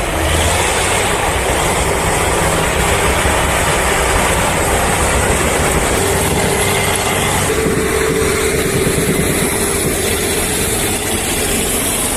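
Heavy diesel engines running hard under load as a TT-4 tracked bulldozer tows a stuck, loaded timber truck out of mud. The noise is loud and steady, and a steady whine joins it about six seconds in for a few seconds.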